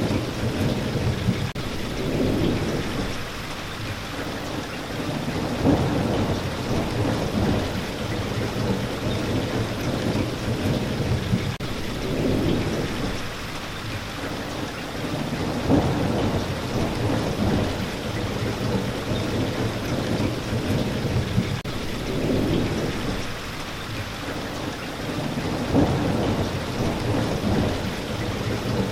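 Steady rain with thunder rolling in low rumbles that swell and fade every few seconds.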